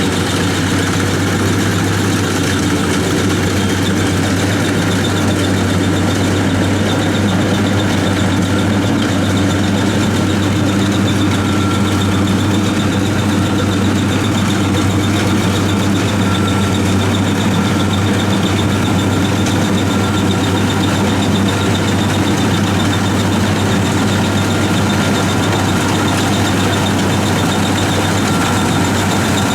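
WD 102 rice combine harvester running steadily, its engine a loud, even drone with a constant low hum and no change in pitch.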